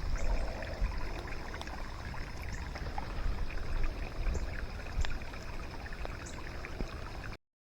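Rain falling: a steady hiss of water with scattered ticks of individual drops. It cuts off suddenly near the end.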